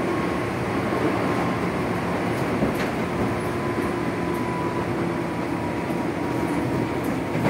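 JR 205-series electric multiple unit motor car (MoHa 205) running along the line, heard from inside the car: a steady running noise of wheels and motors with a faint steady whine.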